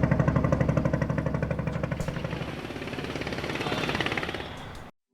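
An engine running with a fast, even chugging beat. It fades a little and cuts off abruptly near the end.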